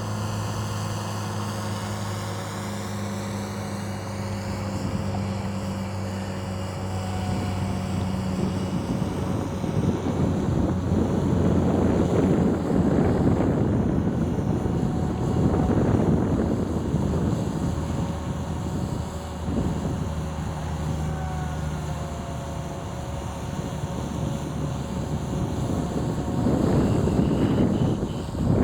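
Radio-controlled model airplane engine droning as it flies, its pitch gliding now and then. A louder rushing noise swells and fades through the middle and again near the end.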